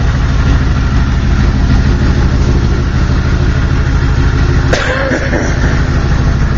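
Diesel engine of a 1993 Chevrolet 3500 dually pickup idling steadily, with a brief sharp sound about five seconds in.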